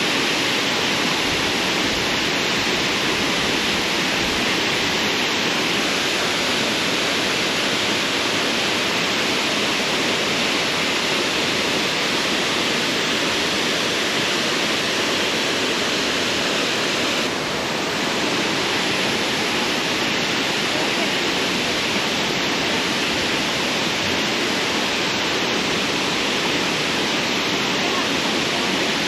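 Waterfall running high after heavy rain, heard from right up close: a loud, steady rush of falling water.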